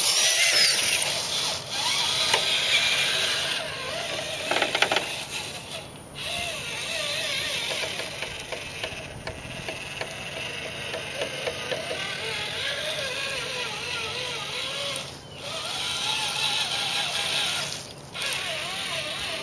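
RC crawler's Traxxas Titan 550 12-turn brushed electric motor and gear drive whining under throttle, its pitch wavering, in several runs broken by brief pauses.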